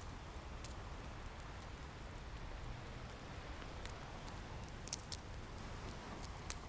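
Wood fire crackling, with scattered sharp pops, the loudest a close pair about five seconds in, over a steady low rush of ocean surf.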